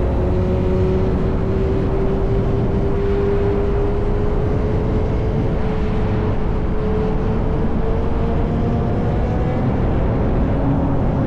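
Yamaha R1 inline-four engine through an SC-Project exhaust, cruising under light throttle. Its note climbs slowly for about seven seconds, then eases off near the end, over a steady rushing noise.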